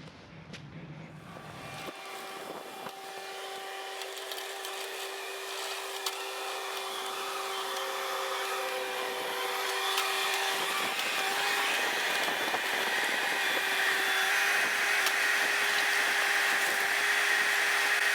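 Bobcat compact machine running with a steady high whine over its engine, the sound growing steadily louder throughout.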